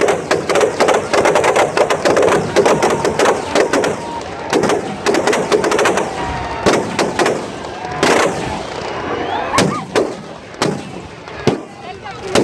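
Firecrackers in a burning effigy going off in a rapid, dense string of bangs for about six seconds, then thinning to scattered single bangs.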